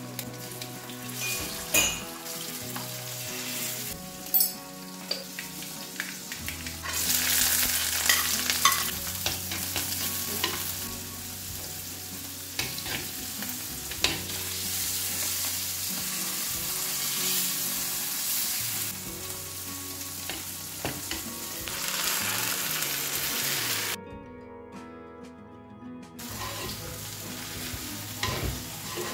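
Fish sizzling in hot oil in a frying pan, the hiss swelling at times, while a spatula stirs and clicks against a clay pot of diced raw plantain being stir-fried.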